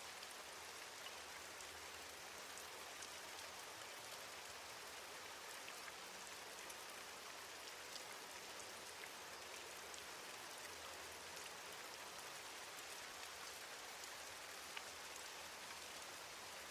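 Steady rain falling on a surface, a soft even hiss with scattered drops pattering.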